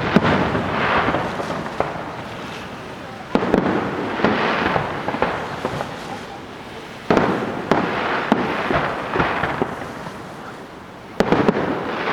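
WECO aerial firework shells bursting: three loud bangs about four seconds apart, each followed by a few seconds of crackling and hiss that fades out.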